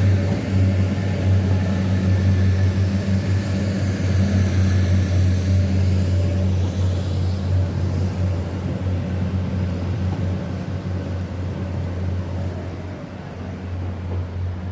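A diesel train's engine running with a steady low hum, getting somewhat quieter over the last few seconds.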